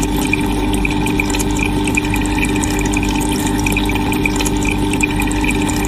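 Steady watery pumping noise, like water being pumped or churned, with faint rapid high ticks over it.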